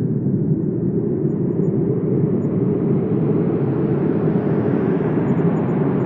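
Steady wind blowing, a deep, even rush, which gets brighter and fuller from about a second in as a gust builds.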